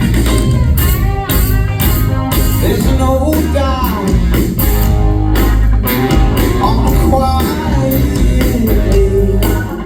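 Live band playing a rock song: a sung vocal line over electric guitar, bass and a steady drum beat.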